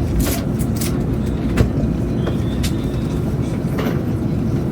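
Chinese high-speed train running at speed, heard from inside a passenger carriage: a steady low rumble with a few scattered light clicks.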